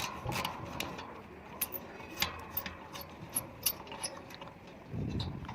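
Wrench working a 10 mm bolt loose on a satellite dish's LNB arm mount: scattered sharp metallic clicks at irregular spacing, with a duller low handling sound near the end.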